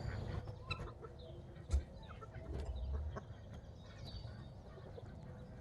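Chickens clucking softly around the feed, with scattered light ticks and a single low thump about two seconds in.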